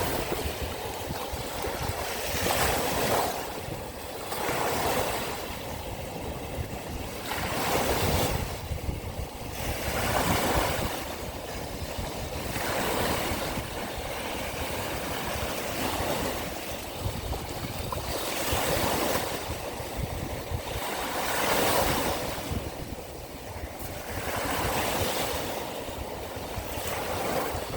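Sea of Azov waves washing in, a surge about every two to three seconds over a steady hiss of water.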